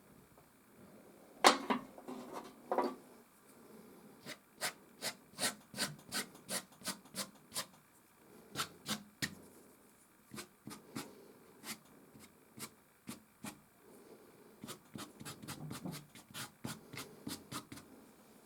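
Soft pastel stick scratching on canvas in short, quick strokes, about two a second for several seconds, then more scattered. A sharp knock about a second and a half in is the loudest sound.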